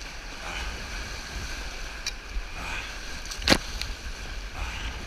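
Rushing river water heard from a raft running whitewater, with one sharp knock about three and a half seconds in.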